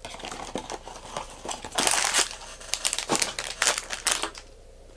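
Crinkling and rustling of a Funko Mystery Minis plastic blind bag being handled and worked open by hand, with louder crackly stretches about two seconds in and again near four seconds.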